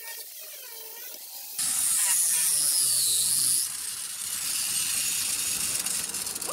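Hand-held power tool starting abruptly about one and a half seconds in, its high whine dropping in pitch over about two seconds, then running on more quietly.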